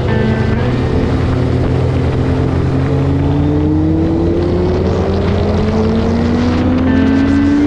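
Supercharged Kawasaki Ninja H2 inline-four engine under way: an upshift just after the start, then the engine pitch climbing slowly and steadily as the bike accelerates in gear.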